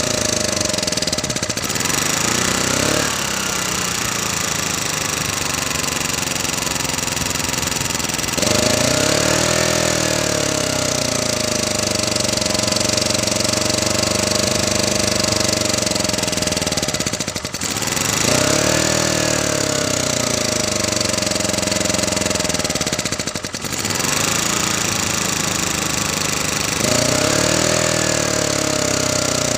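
Honda portable generator's small engine running with its speed hunting up and down: it climbs sharply, holds, then sags, over and over about every nine seconds, with rough low-speed stretches in between.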